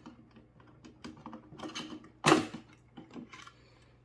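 Parts of a camping air conditioner's cold-air outlet accessory being handled: scattered light clicks and knocks, with one louder clatter a little over two seconds in.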